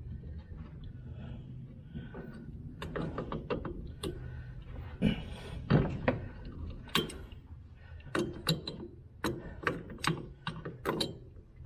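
Pliers working a tight part loose during an oil change on a small side-by-side engine: irregular metal clicks, knocks and scrapes, coming thicker in the second half.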